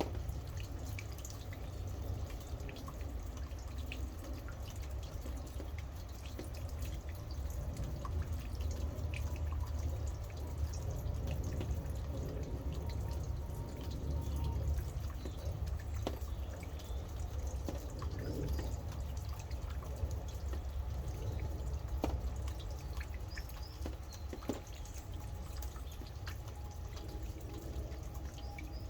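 Rain dripping, with many scattered single drops falling irregularly over a steady low rumble.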